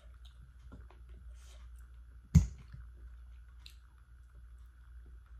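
Eating sounds: faint chewing and small mouth clicks, with one sharp clack about two and a half seconds in, like a fork knocking on a plate. A faint steady hum runs underneath.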